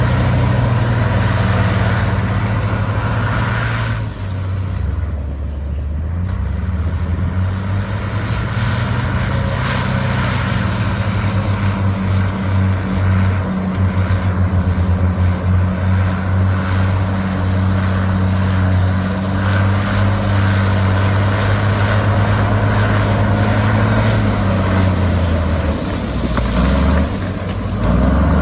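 Heavy diesel engine of earthmoving equipment running under varying load, its pitch dropping and rising as it revs up and down, with a pulsing beat through the middle stretch.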